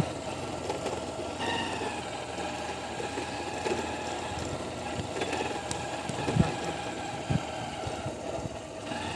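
A vehicle's engine running steadily while moving along, with a few short thumps about six and seven seconds in.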